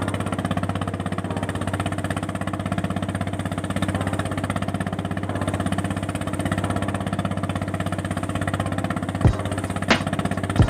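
An engine running steadily with a fast, even pulse and a low hum, and a few sharp knocks near the end.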